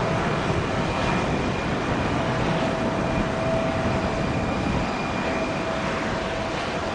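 Airbus A350-941's Rolls-Royce Trent XWB jet engines running steadily: a continuous rushing noise with a thin high whine over it.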